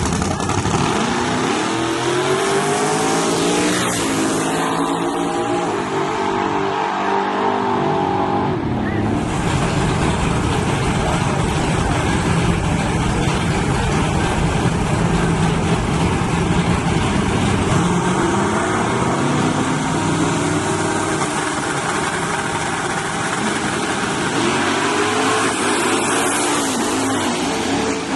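Drag-racing S10 trucks' engines at full throttle, the pitch climbing, dropping back at each gear change and climbing again, with a second run of rising revs later on.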